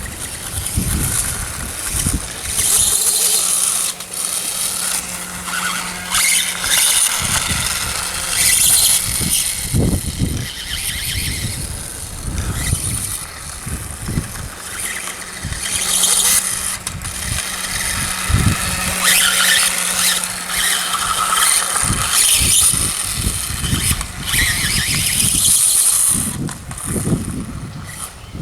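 Electric RC dirt bike's motor and drivetrain whining high, swelling and fading in repeated surges as the throttle is worked, with irregular low rumbles and knocks underneath.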